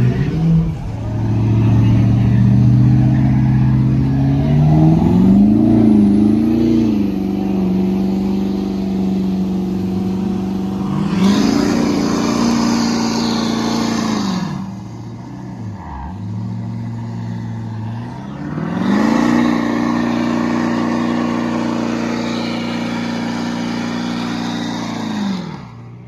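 Truck engine revved up and held at high revs, in two long pulls of several seconds each, dropping back between them. Each high-rev pull carries a loud rushing hiss over the engine.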